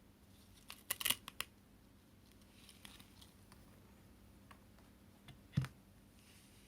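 Plastic parts of a cordless cyclone stick vacuum being handled. A quick cluster of sharp clicks comes about a second in, and a single knock comes near the end.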